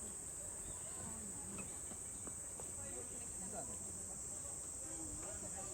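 A steady, high-pitched insect chorus drones without a break, with faint voices of people talking in the background.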